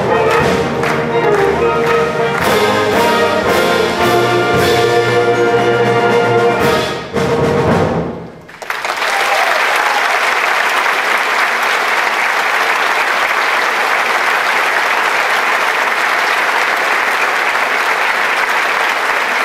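A brass-led concert band plays the closing bars of a piece, which ends about eight seconds in. Audience applause follows and continues steadily.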